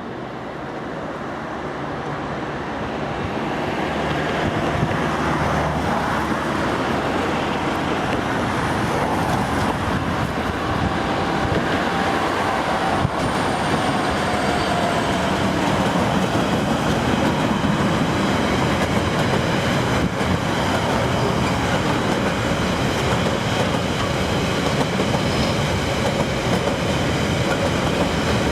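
GBRf Class 66 diesel-electric locomotive hauling a gypsum freight train. The engine grows louder over the first few seconds as it approaches, then the train runs past as a steady, loud rumble of engine and wagon wheels on the rails.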